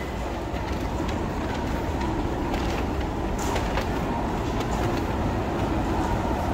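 Train running on rails: a steady rumble with a few sharp clicks from the track a couple of seconds in.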